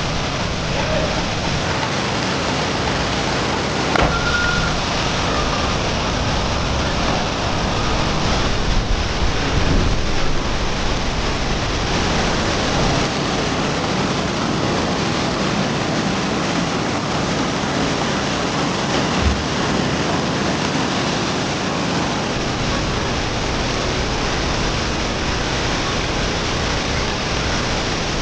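Steady rushing of a waterfall pouring into its plunge pool, an even roar with no change. About four seconds in there is a brief click and a short high chirp.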